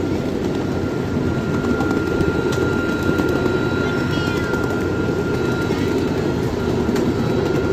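Old train running: a steady low rumble with a thin, steady high tone held through most of it and a few scattered clicks.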